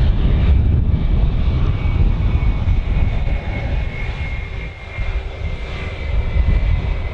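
Airliner engines running: a steady rumble with a thin high whine held above it, easing briefly about four to five seconds in.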